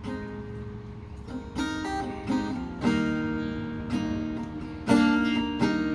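Acoustic guitar strummed slowly, each chord left to ring before the next, as a slow instrumental intro. New strums come about every second or two, the loudest near the end.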